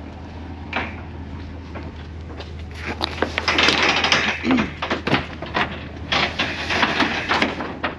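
Road salt scraping and sliding in loose, gritty rushes with many small clicks, heaviest about three seconds in and again near the end, over a steady low hum.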